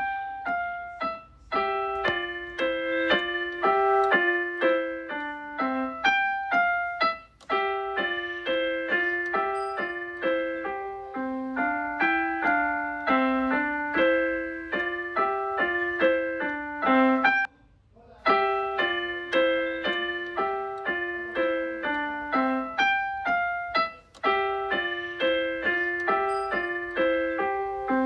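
Background piano music: a quick, even run of single notes, with a short break about two-thirds of the way through.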